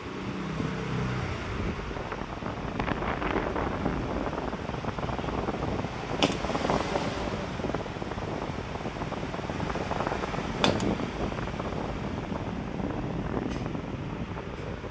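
Electric fan running fast with a steady airy whoosh. Two sharp clicks come partway through.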